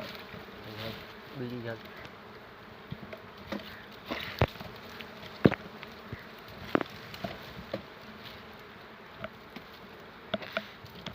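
Insects buzzing steadily, with several sharp knocks scattered through, the loudest about four and five and a half seconds in.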